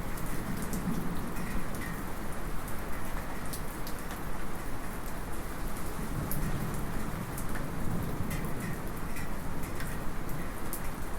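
Steady light rain falling on surfaces, with scattered sharp drip ticks over the even patter.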